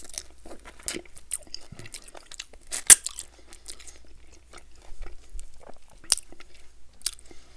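Close-miked eating of creamy garlic crispy fried chicken legs: crunching bites and chewing as the meat is gnawed off the drumstick bone. A scatter of sharp crunches runs throughout, the loudest about three seconds in and another about six seconds in.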